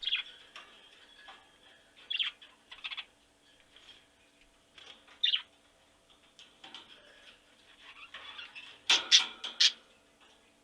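Short high chirps from an animal, singly and in pairs, then a quick run of four louder chirps near the end.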